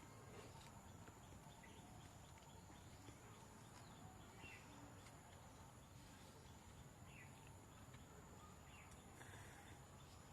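Near silence: quiet outdoor background with a few faint, short chirps scattered through it.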